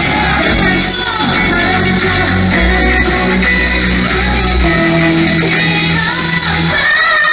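K-pop girl group's live stage performance: loud pop music with sung vocals over concert speakers.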